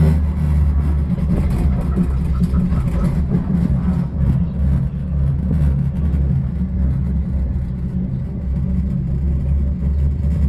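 Steady, loud low rumble of a running vehicle or machinery, holding even throughout.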